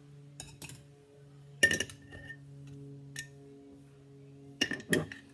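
Glass canning jars clinking as they are handled and set against each other: a few sharp clinks with a short ring, the loudest about a second and a half in and two close together near the end. A steady low hum runs underneath.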